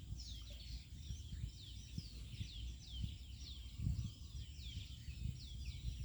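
Birds calling: a steady run of short, high chirps, each sliding down in pitch, two or three a second, over a low outdoor rumble with a few soft thumps.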